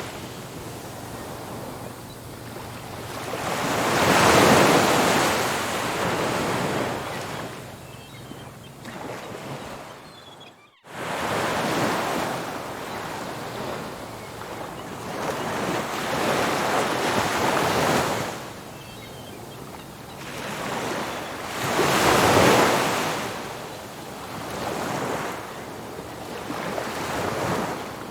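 Ocean surf breaking and washing up a beach in slow swells, two larger waves cresting about four seconds in and again a little after twenty seconds, with smaller waves between. The sound cuts out for a split second near the middle.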